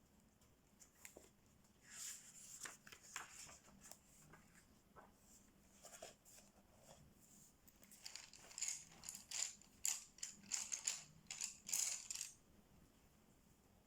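Colouring strokes on paper: a colouring tool scratching in short strokes, scattered at first, then a quicker run of back-and-forth strokes that stops shortly before the end.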